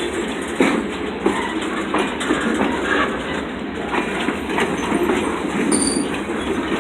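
Freight train cars rolling past, their wheels clacking irregularly over the rail joints.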